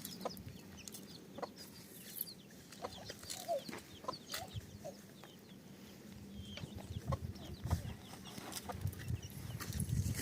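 Chickens clucking faintly, with scattered small clicks and knocks.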